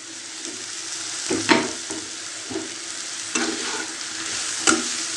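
Chicken pieces with carrot, chilli and capsicum sizzling in a hot pan, with a spatula stirring and striking the pan about five times.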